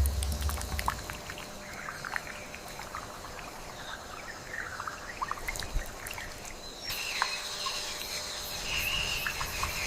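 Outdoor nature ambience with many short bird chirps and calls over a noisy background; about seven seconds in, a steady high-pitched hum joins.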